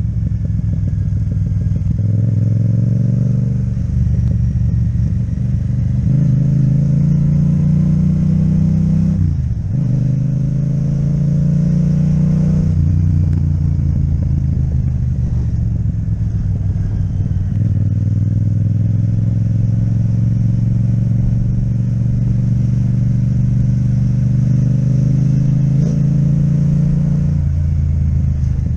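Yamaha MT-07's parallel-twin engine through an Akrapovic exhaust, riding along. The engine note steps down and climbs again several times, with a sharp dip and rise about nine and a half seconds in.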